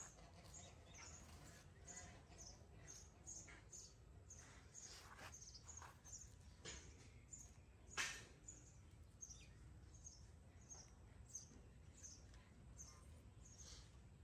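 Near silence with faint, high, short bird chirps repeating about twice a second, and soft crackles of mandarin peel being torn by hand; one sharp click about eight seconds in.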